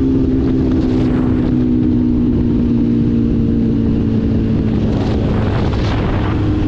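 Motorcycle engine running at road speed, a steady drone whose pitch slowly falls as it eases off, under a constant rush of wind noise.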